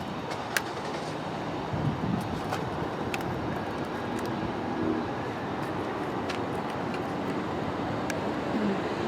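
Steady background rumble and hiss of distant engines and traffic, with a few faint ticks.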